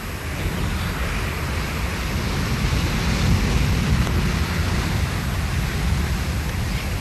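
Steady rushing and rumbling of wind and sea waves, a storm-at-sea sound effect that swells over the first few seconds and then holds.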